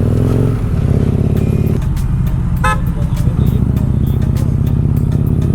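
Motorcycle engine running steadily while riding, with a short vehicle horn toot about two and a half seconds in.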